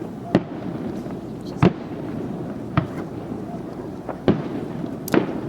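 Fireworks bursting: a string of five sharp booms about a second apart, with fainter crackles between them, over a steady background noise.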